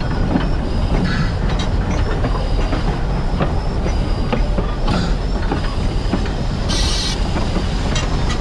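Steam train running on the rails: a steady loud rumble and clatter of the running gear and wheels, with a brief burst of hiss about seven seconds in.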